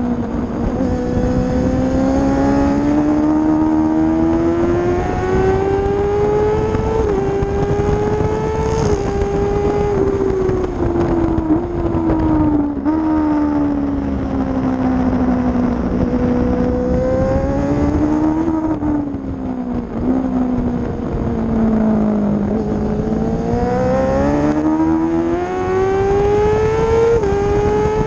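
Kawasaki ZX-6R 636 inline-four sportbike engine at full track pace, its pitch climbing hard through the gears with sharp drops at each quick upshift, easing off and falling in pitch near the middle, then pulling up through the gears again. Wind rushing over the onboard microphone underneath.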